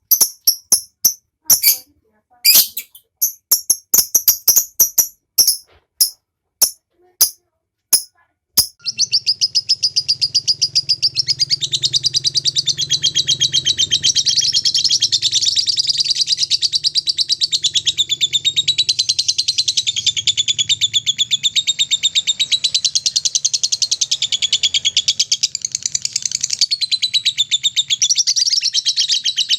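Lovebird giving a string of sharp single chirps, then about nine seconds in breaking into a long unbroken rapid trill, the lovebird's 'ngekek' song.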